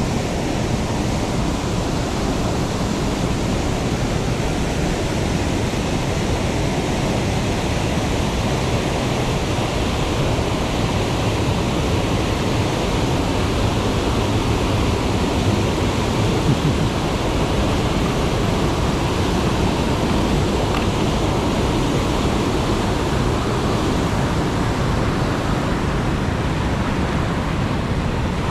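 Yantic Falls: steady, loud rushing of water pouring over a mostly natural waterfall with a dam at its top.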